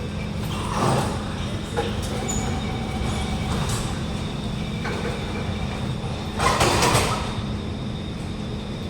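Alstom Movia R151 metro train humming steadily, heard from inside the carriage. A short rush of noise comes about a second in, and a louder one about six and a half seconds in.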